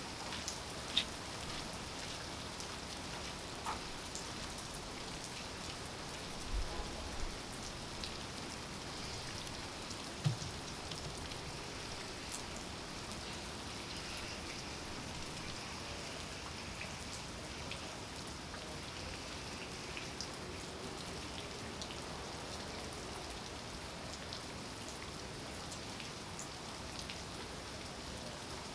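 Steady rain falling, an even hiss of drops. A few louder single drops or taps land in the first ten seconds.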